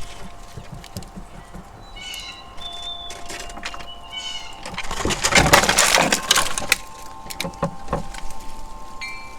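Backyard ambience: wind chimes ringing with long steady tones, short mewing animal calls, and a louder rush of noise for about a second and a half, about five seconds in.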